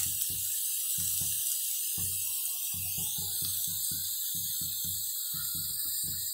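Dry-spiced potato bhaji sizzling in a kadhai, a steady high hiss. Under it are soft low thumps, a few a second.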